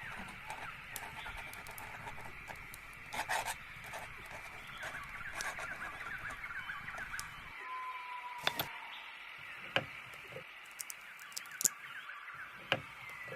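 Many small birds chirping and singing in a dense, steady chorus, with a few sharp clicks or taps scattered through it.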